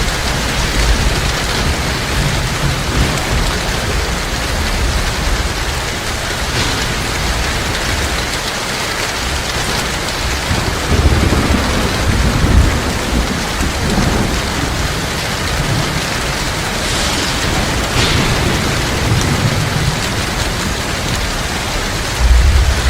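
Heavy rain falling steadily, with low rolls of thunder that swell about halfway through and again near the end.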